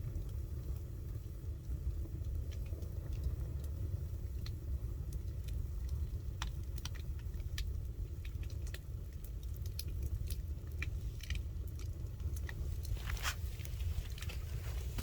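Campfire crackling: wood fire giving irregular sharp pops and snaps, more frequent in the second half, over a steady low rumble.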